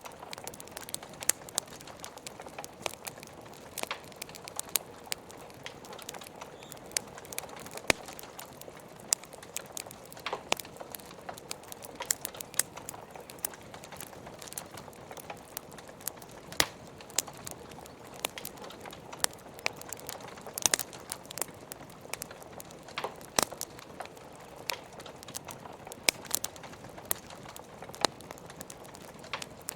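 Log fire crackling with frequent irregular sharp pops and snaps over a steady hiss of rain.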